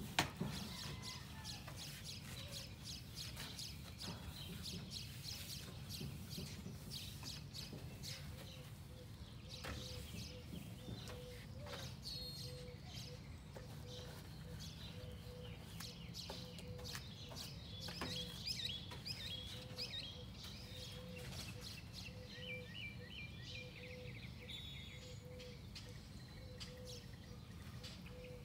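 Birds chirping over a low steady outdoor hum, with a soft note repeating steadily from about a third of the way in, and faint clicks and taps, most of them in the first half.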